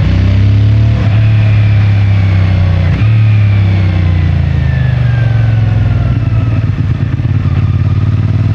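CFMoto 450MT's parallel-twin engine through the stock exhaust, accelerating with two quick upshifts, one just after the start and one about three seconds in. It then eases off, the pitch slowly falling as the bike rolls on.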